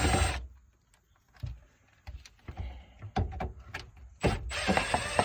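Ratchet wrench working the nuts on a fuel-tank strap hanger. It runs in two bursts, one ending just after the start and one starting about four seconds in, with scattered metal clicks and knocks between them.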